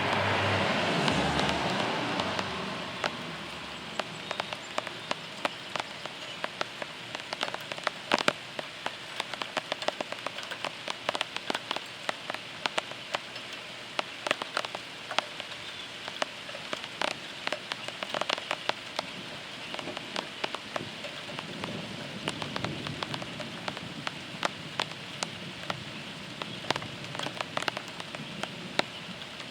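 Heavy rain falling steadily, with many sharp drop ticks hitting a hard surface close by. A rumble of thunder dies away over the first three seconds.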